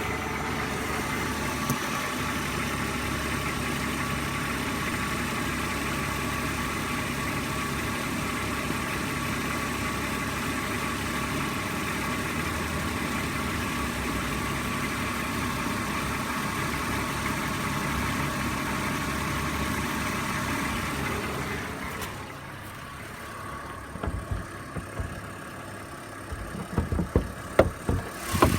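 BMW M54B22 2.2-litre straight-six idling steadily, free of the strange noise it had before: the owner believes it is cured by re-fitting the spark plugs and tightening them past the specified torque. About 22 seconds in the running sound drops away, and a few thumps follow near the end.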